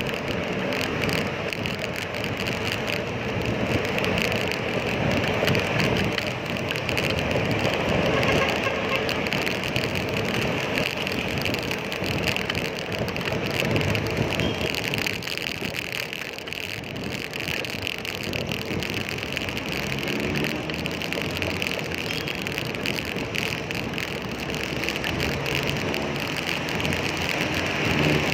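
Road traffic heard from a moving bicycle: a steady rushing noise with passing vehicles and engines.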